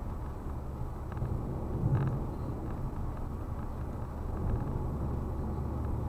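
Steady low road and engine rumble heard from inside a moving car, with a brief louder swell about two seconds in.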